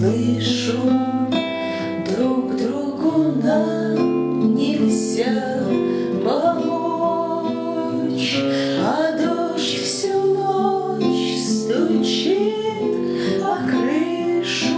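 Music: an instrumental passage of a song, acoustic guitar plucked and strummed.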